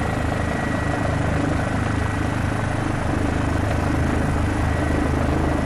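Police helicopter's rotor and engine running steadily, a constant low drone and rush with a thin, steady high tone over it.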